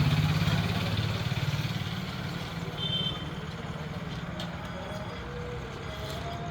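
Truck engine running with a steady low pulsing note that gradually fades.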